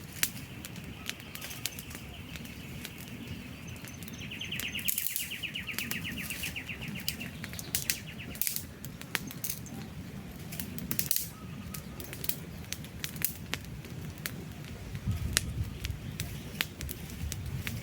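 Wood fire burning with many sharp crackles and pops over a low, steady rumble of flames. A high, rapid trill sounds over it for the first several seconds and then stops.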